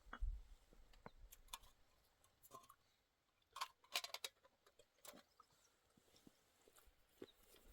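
Faint, scattered clicks and knocks at irregular intervals, with a short cluster of sharper ones about four seconds in.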